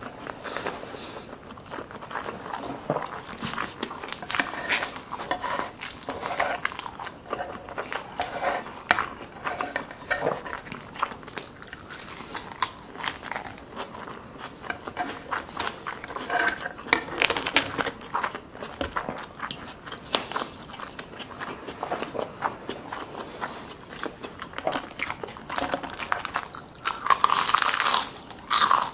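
Close-up chewing and crunching of food in the mouth, with many small crunches. Near the end comes a louder crunching bite into crispy deep-fried soft-shell crab.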